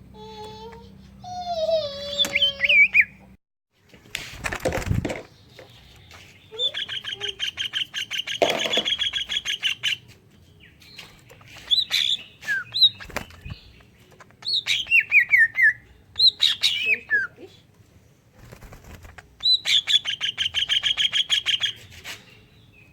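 Cucak ijo (green leafbird) singing a song filled with mimicked kingfisher (tengkek udang) calls: fast, rattling high trills of rapidly repeated notes, once early and again near the end, with sharp down-slurred whistled notes between them. A brief rustling burst comes about four seconds in.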